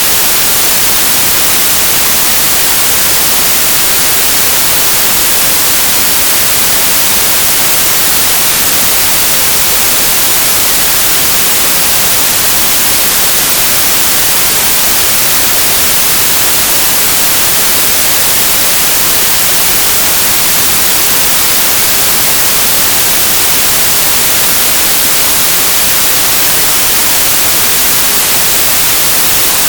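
Synthesized stereo white noise: a steady, loud, bright hiss with no change.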